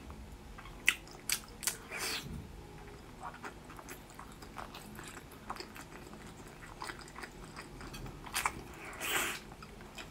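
Close-up mouth sounds of biting into and chewing a soft braised pork skin roll: sharp lip-smacking clicks several times in the first two seconds, scattered softer chewing clicks after, and a louder, longer mouth sound near the end.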